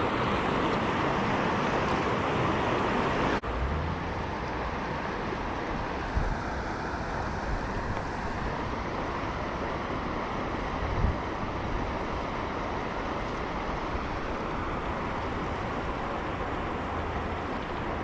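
Steady rush of flowing river water with some low wind buffeting on the microphone. The sound changes suddenly about three and a half seconds in, becoming duller.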